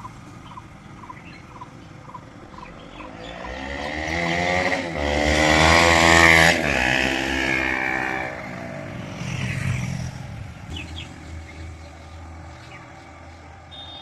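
KTM Duke 125's single-cylinder engine passing close by: it grows louder for a couple of seconds, then drops in pitch as it goes past and fades. A weaker swell of the same kind follows a few seconds later.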